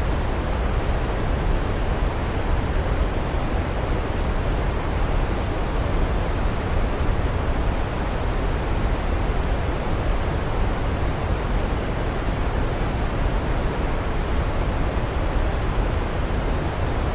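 Steady rushing of a waterfall blended with white noise: an even, unbroken hiss that is heaviest in the low end.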